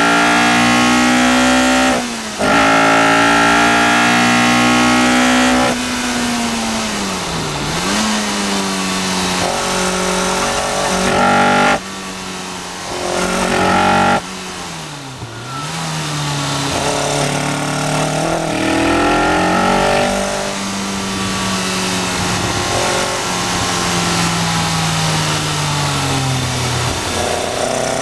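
Caterham R400's Duratec four-cylinder engine heard from the cockpit at high revs on full throttle, with a brief break for a gear change about two seconds in. It then slows into corners with several downshifts, its pitch falling and stepping, before climbing again and falling once more toward the end.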